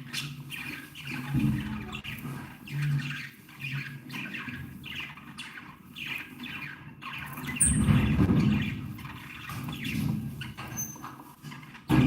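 A group of budgerigars chattering and chirping continuously in quick, short calls. A low rumble swells underneath twice, most strongly about two-thirds of the way through.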